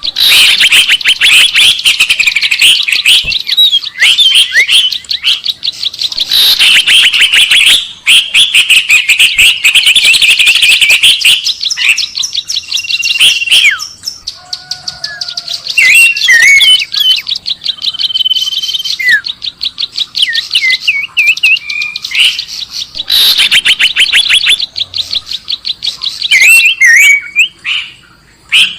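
Bird-lure recording of small songbirds chirping loudly in dense, rapid trills and twitters, with scattered whistled notes. The calls ease off briefly about halfway through and again just before the end.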